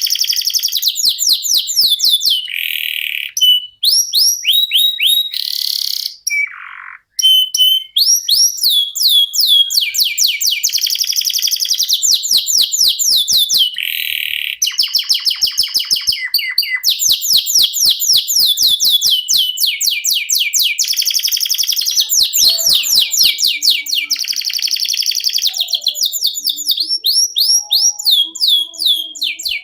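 Domestic canary singing a long rolling song: fast trills of rapidly repeated rising notes, broken by brief held buzzy notes, with a short pause about seven seconds in.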